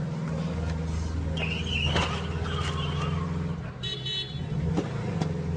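Car engine running steadily, heard from inside the cabin, with a few sharp clicks and a short high beep about four seconds in.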